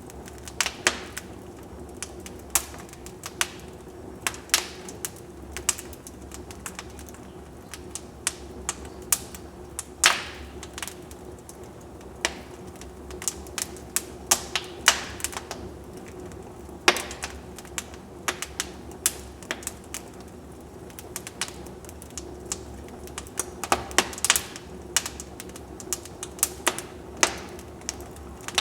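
Wood fire crackling in a fireplace: irregular sharp pops and snaps, sometimes in quick clusters, with a few louder cracks, over a faint steady low hum.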